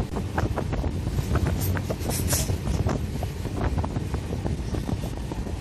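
Wind buffeting the microphone outside a moving train, over a low rumble and a rapid, irregular clatter of steel wheels on rails as it runs alongside a goods train.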